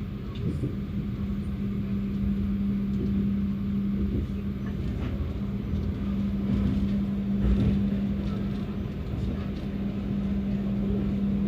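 Passenger train running: a steady low rumble with a constant hum and scattered faint clicks.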